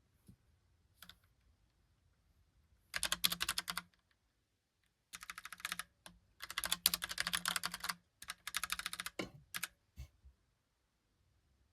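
Logitech Pop Keys mechanical keyboard being typed on: quick runs of key clicks in several bursts with short pauses between them, ending in a few single keystrokes.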